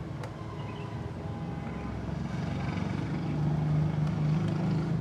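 A motor vehicle engine running with a steady low drone that grows louder over the last few seconds.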